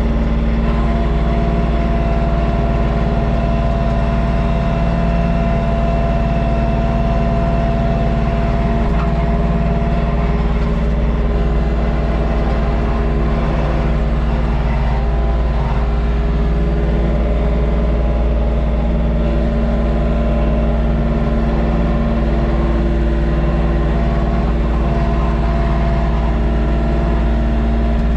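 LS MT232 compact tractor's three-cylinder diesel engine running steadily, with an even, loud low rumble.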